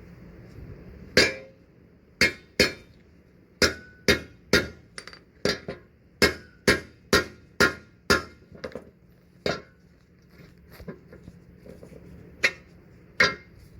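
Hammer blows on a punch driving an old bushing out of a 1979 Chevrolet C10 leaf spring eye: about seventeen sharp metallic strikes at uneven spacing, some in quick pairs, each ringing briefly.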